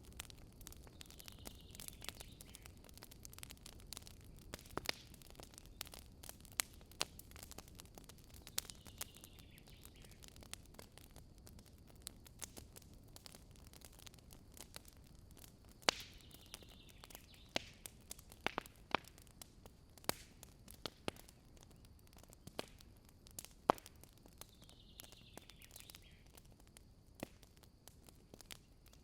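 Wood campfire crackling, with irregular sharp pops and snaps of burning wood. A bird calls faintly four times in the background.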